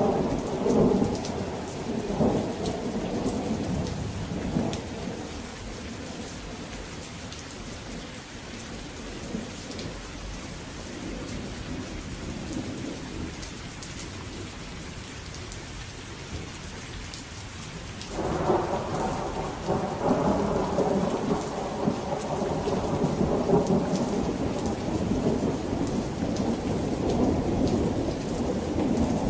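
Steady rain falling with rolling thunder. A rumble dies away over the first few seconds, then a new peal breaks suddenly about two-thirds of the way through and keeps rumbling.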